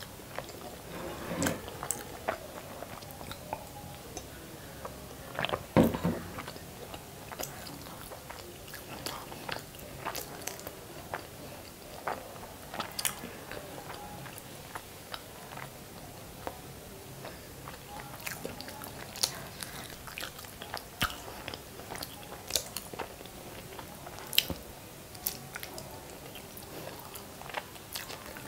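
Close-miked chewing and biting of masala-coated hard-boiled eggs: soft wet mouth sounds with scattered small clicks, and one louder thump about six seconds in.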